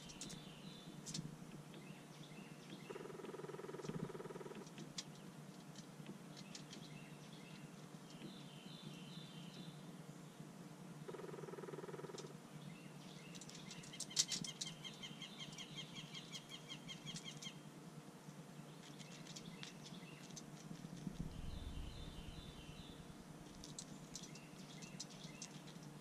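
Faint songbirds singing: a short phrase of a few high chirps comes back several times, and a quick trill of evenly spaced chirps runs for a few seconds about halfway through. Scattered light taps and clicks, and two brief low hums in the first half.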